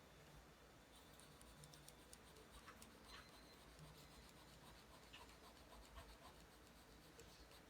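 Pencil drawing lines on paper: faint, scattered scratching strokes with light ticks.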